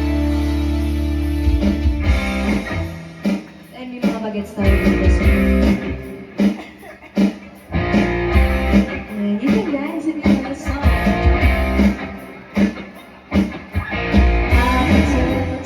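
Live band music with no vocals: a held chord, then about two seconds in the drums come in with a steady beat and a guitar plays over them.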